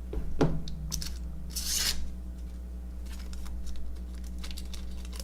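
Baseball cards handled by hand, sliding and rubbing against each other: a sharp click about half a second in, a brief swish near the two-second mark, then light scattered ticks.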